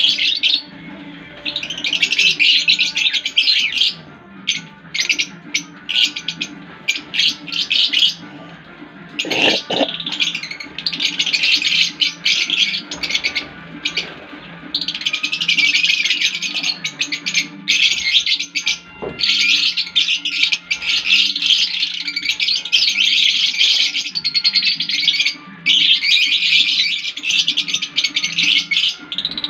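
A group of caged pet birds chirping shrilly, many at once, in dense bursts of a few seconds with short pauses between.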